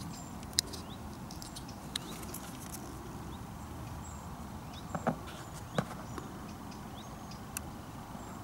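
Scattered small clicks and taps from a superglue tube and hard fishing pellets being handled on a plastic tub lid, a few single ticks with a pair about five seconds in, over a steady low outdoor rumble.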